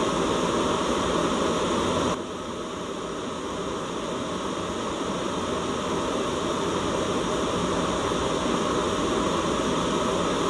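Steady white-noise sleep track: an even hiss, fuller in the lower range. About two seconds in the level drops suddenly, then slowly swells back over the next few seconds.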